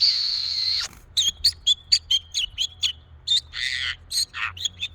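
Pet parrot screeching harshly for about a second, then giving a quick run of short chirps and clicks, with another brief squawk near the end.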